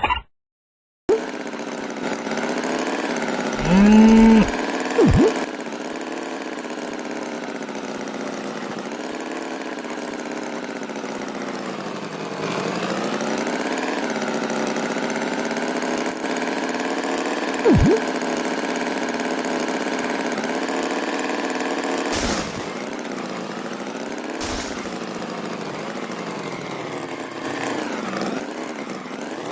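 An engine running steadily, its pitch drifting slowly up and down. A short rising call comes about four seconds in, and brief high squeaks come near five and eighteen seconds in.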